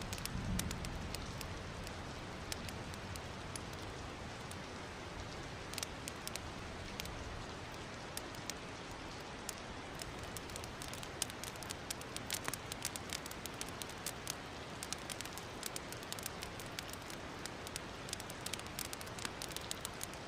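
Wood fire crackling in a fireplace: a steady soft hiss with sharp pops and snaps, which come more often in the second half.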